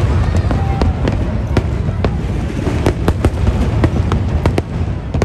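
Aerial fireworks display: sharp bangs and crackles several times a second, irregularly spaced, over a continuous low rumble of shell bursts.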